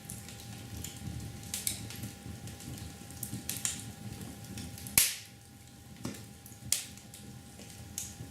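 Irregular sharp taps and clicks over a low rumble, with one much louder snap about five seconds in, and a faint steady tone underneath.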